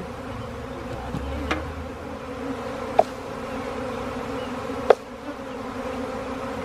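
A large honeybee swarm buzzing in a steady drone, stirred up as it is cut loose and dropped into a hive box. Two sharp clicks stand out, about three and five seconds in.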